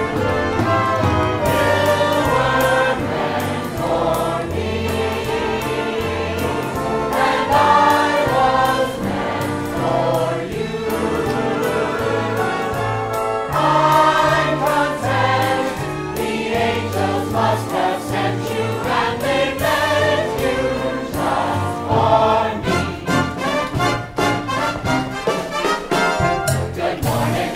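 A group of voices singing a show tune together over instrumental accompaniment, with a bass line stepping from note to note.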